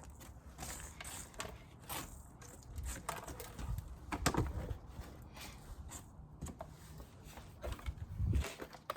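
Wooden beehive frames and hive parts being handled: irregular clicks, scrapes and rustles, with a louder knock about four seconds in and another near the end.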